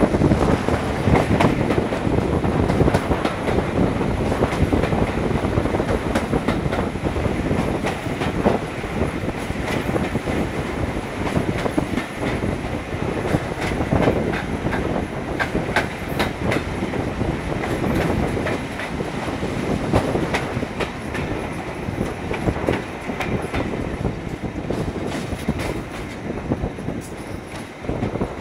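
Train hauled by a Class 26 diesel locomotive running along the line, heard close up: a steady rumble of running noise with wheels clicking over rail joints.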